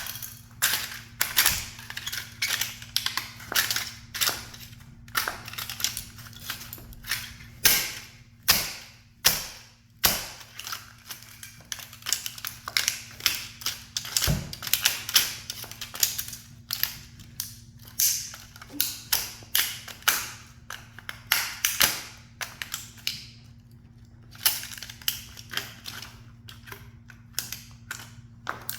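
A toy sports car being crushed under a high heel: a dense, irregular run of sharp cracks and snaps, several a second, with a few louder snaps.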